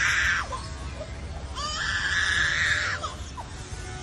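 Lyrebird mimicking an animal screaming in distress: two long, harsh screams, each about a second and a half, sliding up at the start and dropping away at the end. The first one ends about half a second in, and the second comes in the middle.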